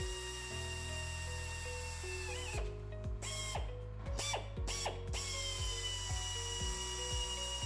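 Electric drill running with a steady whine as it drills holes in the metal heat-shield plate. The whine winds down about two and a half seconds in, gives a few short bursts, then spins back up at about five seconds.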